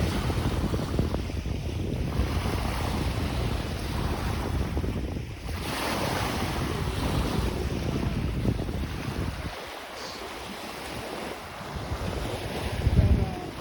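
Wind buffeting the microphone in a heavy low rumble, with small lake waves washing on the beach behind it. The buffeting eases about two-thirds of the way through, then a brief gust hits near the end.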